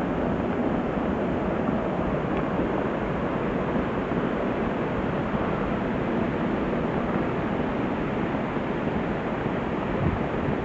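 Wet-snow avalanche rushing down a gully, a steady loud roar of sliding snow with no break.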